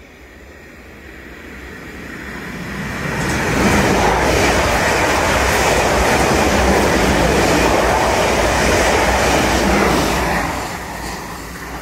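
South Western Railway Class 444 Desiro electric multiple unit train passing through the station: its rumble and wheel noise on the rails build up over the first few seconds, stay loud for about six seconds as the coaches go by, then fade away.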